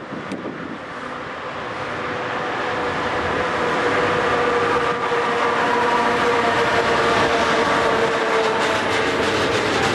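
Freight train hauled by an electric locomotive passing close by. It grows louder over the first few seconds as the locomotive approaches, then holds a steady rumble of passing wagons with a whining tone and some clicks of wheels over the rails.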